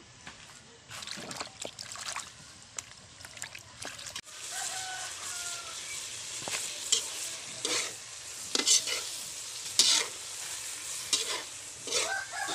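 Chicken livers sizzling in a wok while a metal spatula stirs them, knocking and scraping against the pan; the sizzling starts about four seconds in, after a stretch of quieter clicks. A chicken calls briefly in the background, once near the start of the sizzling and again near the end.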